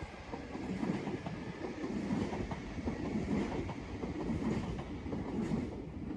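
Train running past, its wheels clacking in a steady rhythm.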